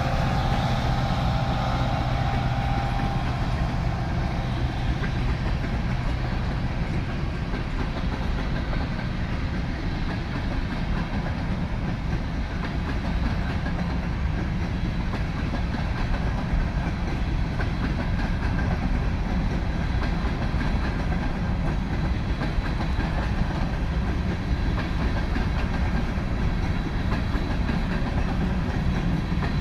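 Freight train's covered hopper cars rolling past on the rails, a steady rumble of wheels on track. In the first few seconds the drone of the departing diesel locomotives fades out.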